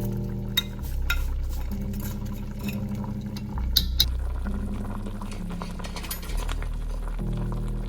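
Light clinks and stirring of kitchen utensils against cookware, with a few sharp clinks about half a second, one second and four seconds in, over soft background music with held low notes.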